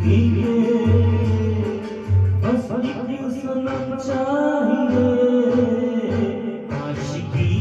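Hindi film song sung over a backing track with a pulsing bass beat; the singing voice comes in about two and a half seconds in and holds long, wavering notes.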